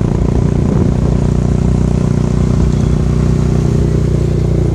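A motor vehicle's engine running steadily at a constant speed, heard from on board.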